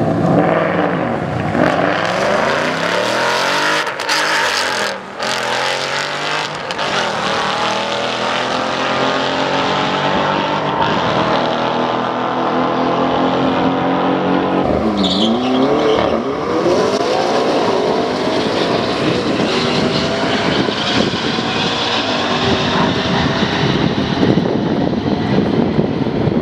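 High-performance car engines at full throttle in drag-strip runs, the revs climbing again and again through upshifts as the cars accelerate down the quarter mile. About fifteen seconds in, one engine's pitch dips sharply and climbs again.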